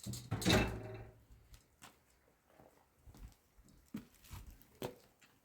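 A louder rustling clatter about half a second in, then scattered light clicks and knocks.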